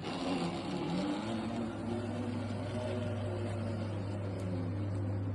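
Zipline trolley pulleys running along the steel cable, a steady whirring hum whose pitch dips and rises about a second in, then holds.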